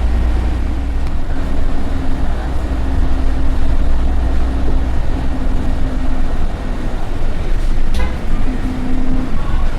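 City bus running, heard as a steady low rumble with an engine hum that comes and goes, and one sharp click about eight seconds in.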